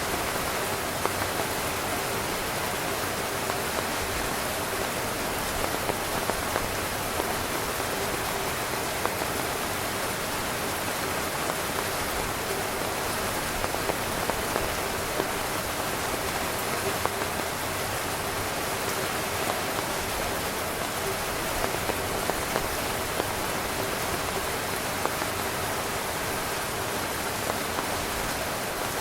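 Steady heavy rain drumming on a tent's fabric, a dense even patter with scattered louder individual drops.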